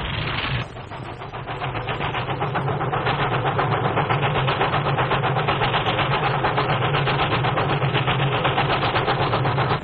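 Steam locomotive running at high speed, its exhaust beats coming in a fast, even rhythm that builds over the first couple of seconds and then holds steady. A short burst of rain-like noise cuts off about half a second in.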